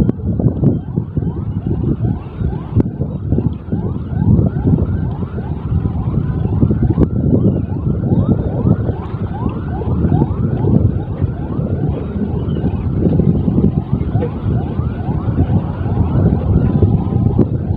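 Strong wind buffeting the microphone with a heavy low rumble. Over it, a short rising squeak repeats steadily two or three times a second.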